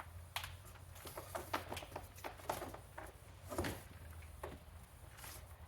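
Irregular light clicks and knocks of a plastic Dyson vacuum being handled and checked over, with a low steady hum underneath.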